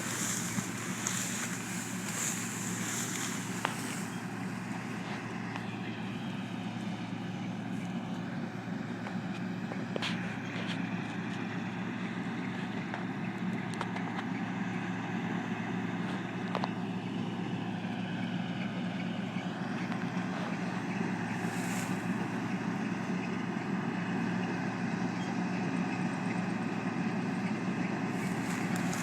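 Heavy farm machinery engine running at a steady drone, with wind on the microphone for the first few seconds.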